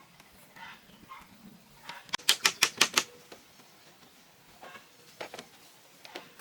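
A quick run of about six sharp knocks in under a second, with fainter scattered knocks and taps around it.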